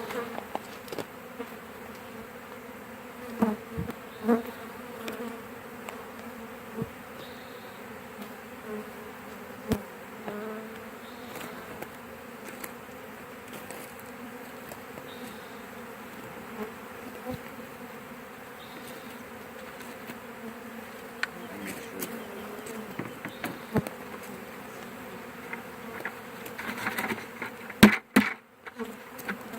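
Honey bee swarm buzzing steadily as a hum, with scattered sharp knocks and a louder clatter of knocks near the end.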